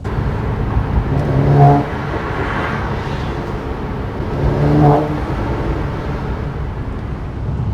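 Mercedes-AMG C43's twin-turbo V6 accelerating hard. Its note climbs in pitch and loudness twice and drops back each time, about two seconds and five seconds in, as it shifts up through the gears.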